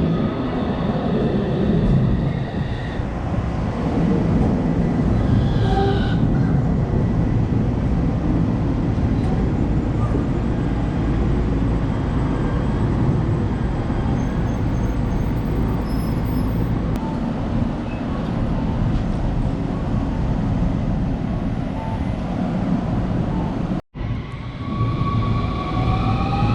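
Electric train running with a steady low rumble. Near the end, after a brief cut, a rising whine of its motors as it picks up speed.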